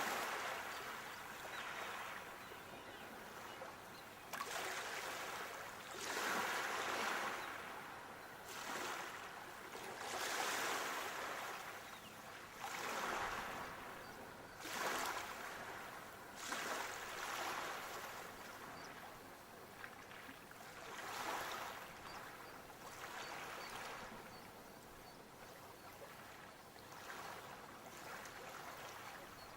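Sea waves breaking and washing up the shore, a fresh surge of surf every few seconds.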